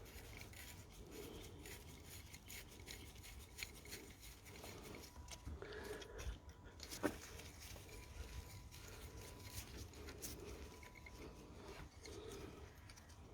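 Faint scraping and light metallic clicks of hand tools as loosened 10 mm bolts are undone by hand, with one sharper click about seven seconds in.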